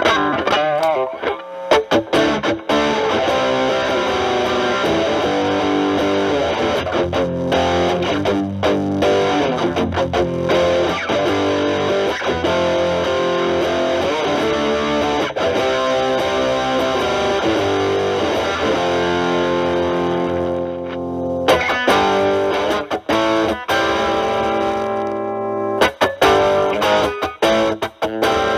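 Stratocaster electric guitar with single-coil pickups playing chords and lines through a ProCo RAT2 distortion boosted by an Ibanez TS9 Tube Screamer into a Marshall Valvestate amp, the guitar's volume knob rolled back so the distortion cleans up to a lighter grit. Choppy muted strums in the last several seconds.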